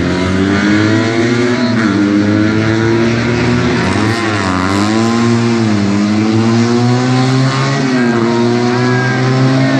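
Car engine under hard use, its revs dipping and climbing again every second or two as the driver works the throttle through the course.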